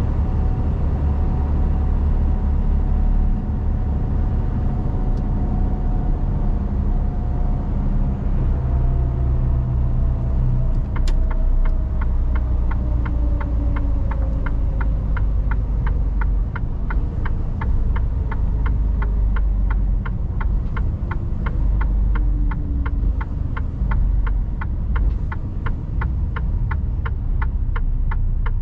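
Mercedes-Benz Actros truck running, heard from the cab: a steady low engine rumble with a whine that falls in pitch as the truck slows. About a third of the way in a click sounds, and the turn-signal indicator starts ticking steadily, about two ticks a second.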